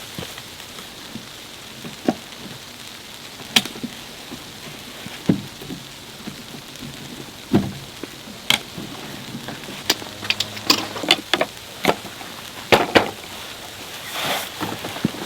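Snowstorm precipitation: a steady hiss with scattered, irregular sharp ticks and taps of snow or ice striking nearby surfaces, coming thicker about two-thirds of the way through.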